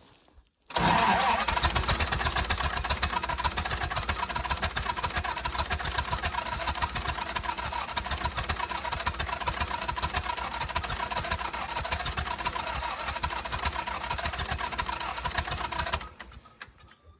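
Lincoln SA-200 welder's engine cranking over on the starter at −20 in a cold-start attempt: a steady fast pulsing for about fifteen seconds that stops abruptly, with the engine not catching.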